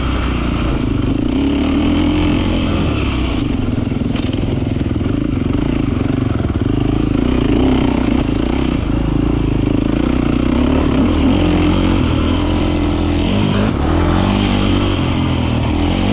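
Beta 450 RX motocross bike's four-stroke single-cylinder engine running continuously under changing throttle, its note rising and falling.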